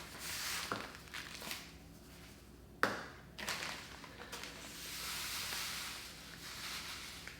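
Cooking salt being tipped out of its container, with rustling, light clicks and soft pouring hiss, and one sharp knock nearly three seconds in.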